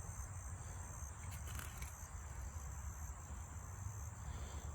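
Insects chirring in a steady, high-pitched chorus, with a low steady rumble underneath.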